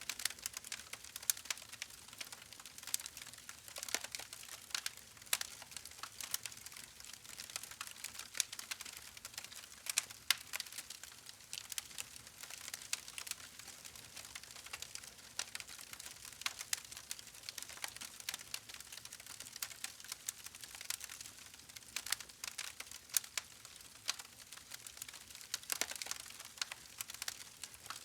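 Campfire crackling: an irregular scatter of sharp pops and snaps, several a second, over a soft steady hiss.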